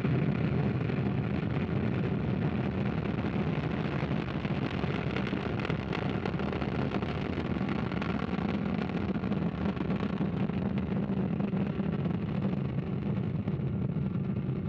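Ariane 5 rocket's Vulcain main engine and two solid rocket boosters firing through liftoff and the first seconds of climb: a steady, dense rushing noise, heaviest in the low end, that does not let up.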